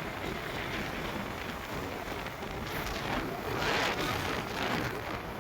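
Rushing wind and road noise on a moving motorcycle's microphone, swelling for a moment about three and a half seconds in.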